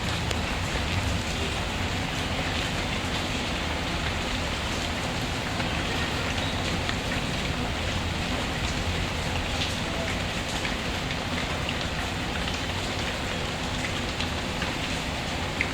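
Steady rain falling, with a few faint scattered crackles from a wood fire.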